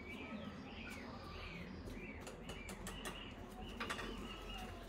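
Small bird chirping, a short rising-and-falling note repeated about twice a second, with light clicks and a soft knock near the end.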